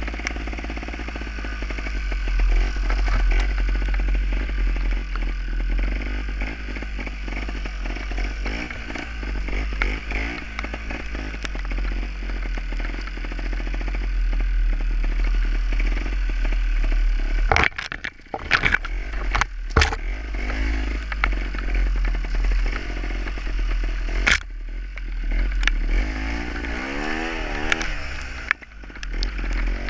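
Gas Gas trials motorcycle's two-stroke engine running while being ridden. A few sharp knocks come in quick succession a little past the middle, and near the end the revs rise and fall several times.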